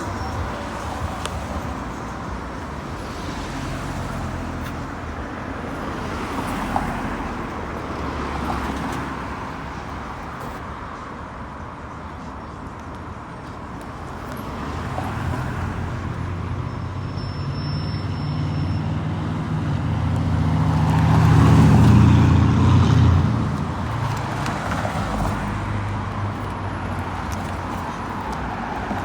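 Road traffic passing steadily. A vehicle passes close about three quarters of the way through, its low engine hum swelling to the loudest point and then fading.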